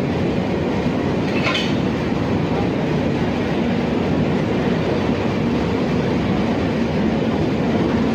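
Train running on the rails with a steady rumble of wheels and cars. A short high-pitched sound cuts through about a second and a half in.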